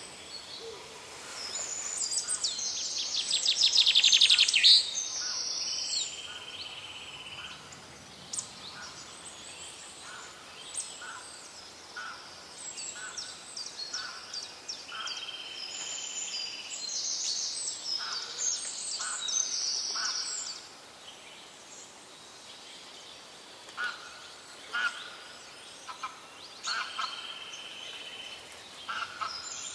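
Birds calling outdoors: a loud, rapid rattling series of clicks builds over a couple of seconds and stops abruptly, amid repeated high chirps and short trills from small birds.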